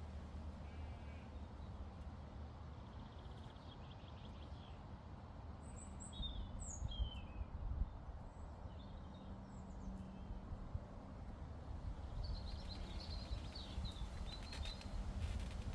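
Small birds chirping in short, quick phrases, once around the middle and again near the end, over a steady low hum and rumble.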